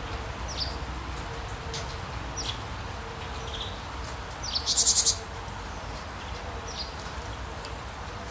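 Rainforest ambience: birds calling in short, falling chirps every couple of seconds over a steady background hiss. About four and a half seconds in comes one louder, harsher call lasting about half a second.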